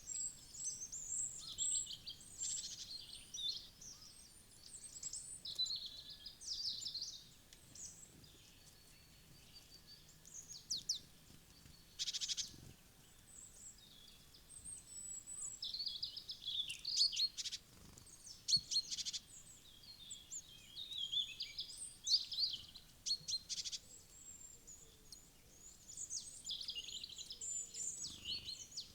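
Several small woodland birds chirping and calling in quick, high-pitched, overlapping bursts, with a quieter stretch about ten seconds in.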